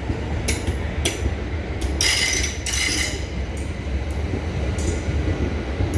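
Train running with a steady low rumble, broken by irregular high metallic clinks and rattles, the busiest stretch about two to three seconds in.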